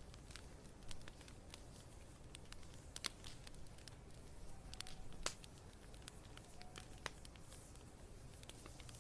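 Wood fire crackling, with irregular sharp pops and snaps over a low steady rumble of the flames; the loudest pops come about three seconds in and a little after five seconds.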